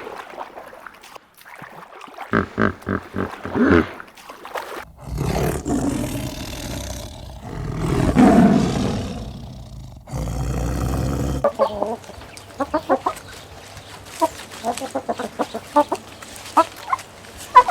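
A string of animal calls: first a quick run of short, pitched calls, then one long rough roar-like call that swells to its loudest near the middle, then rapid short chattering or clucking calls.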